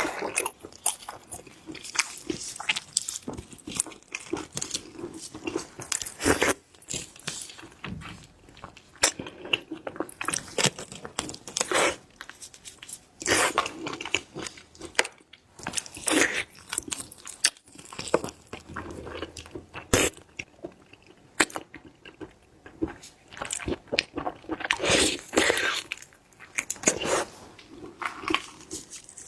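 Close-miked eating of big shrimp: irregular sharp crunches and bites, with chewing between them.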